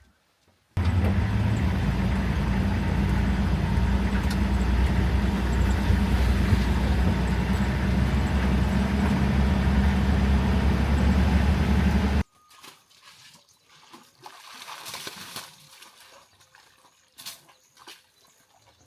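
Vehicle engine running steadily and loudly with a low hum, starting abruptly about a second in and cutting off abruptly near twelve seconds; faint scattered outdoor sounds follow.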